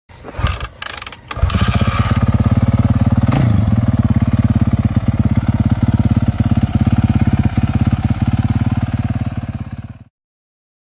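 Motocross bike engine catching after a few short sputters, then running with an even, rapid pulse and a brief blip of revs about three and a half seconds in; it cuts off abruptly near the end.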